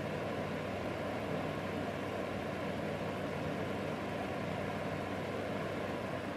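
Pelonis fan-forced space heater running steadily on its low heat setting: its small three-blade fan gives an even whir with a faint low hum.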